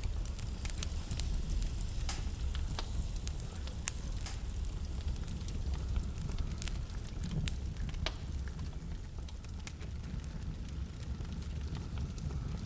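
Wood fire burning in a fireplace: a low steady rumble of the flames with frequent sharp crackles and pops from the burning logs.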